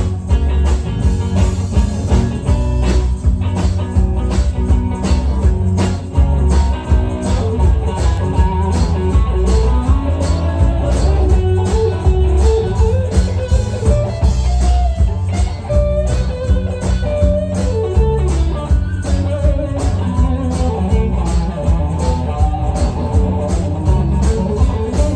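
Blues-rock music: a band with guitar over bass and a steady drum beat, with no words sung in this stretch.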